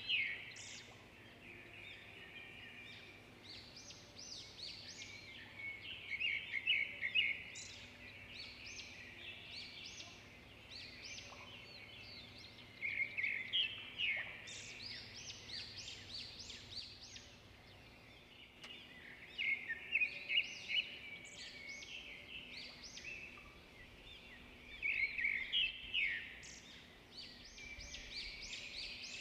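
Birds chirping and twittering in a steady chorus, with a louder flurry of rapid high chirps returning about every six to seven seconds.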